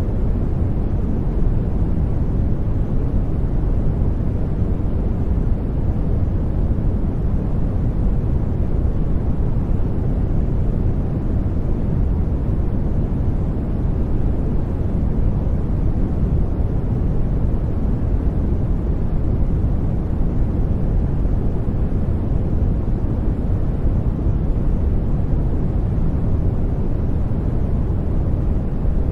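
Brown noise: a steady, deep rumbling hiss, strongest in the bass and fading toward the treble, unchanging throughout.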